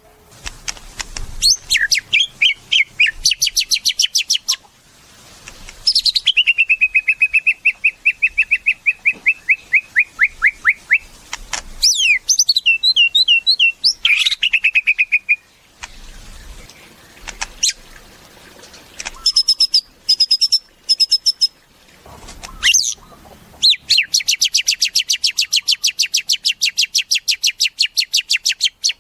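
White-rumped shama (murai batu) singing a loud, varied song of fast trills, whistled runs of quickly repeated notes and high chips, with short pauses between phrases. It ends on a long rapid trill.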